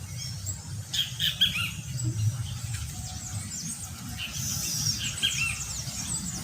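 A flock of small birds chirping and squawking, many short overlapping high calls, busiest about a second in and again around four to five seconds in, over a low steady rumble.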